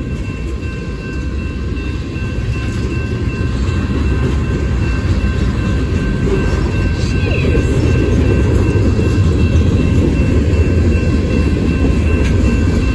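A train rolling past at slow speed, a continuous rumble of wheels and cars that grows steadily louder.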